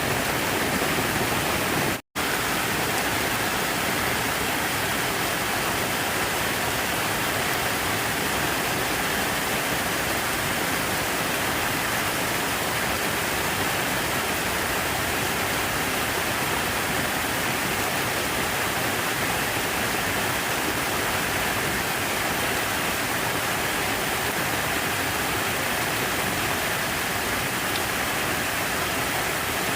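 Steady rushing of falling water, an even white-noise wash with no changes, apart from a split-second dropout about two seconds in.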